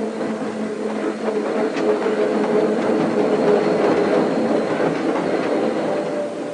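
Electric tram running along the rails: a steady motor hum with rolling wheel noise and light clicks over rail joints. It grows louder over the first couple of seconds and cuts off abruptly at the end.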